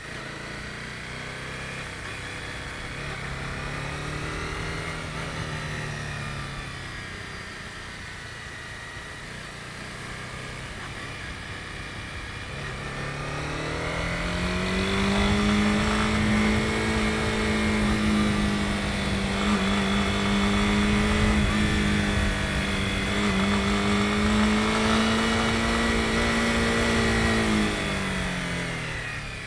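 Honda CB250R's single-cylinder engine under way, low at first with a brief rise and fall a few seconds in. About thirteen seconds in the revs climb and hold steady, easing off near the end, over steady tyre and wind noise.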